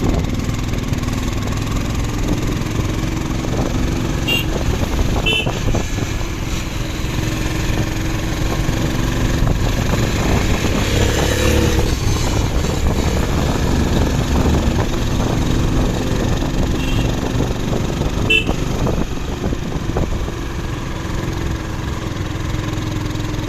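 A vehicle engine running steadily with road noise, and a few short high beeps.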